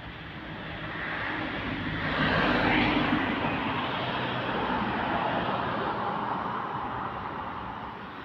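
A vehicle passing by: it grows louder over the first two or three seconds, then fades away with its pitch falling.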